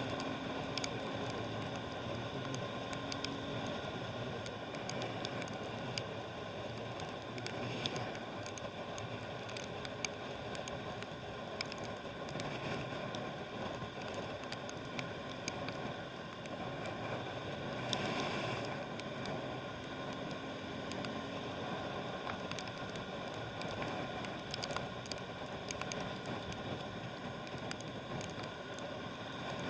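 Wet road noise from riding a motorbike in the rain: a steady hiss of tyres and wind, with frequent small ticks of water drops.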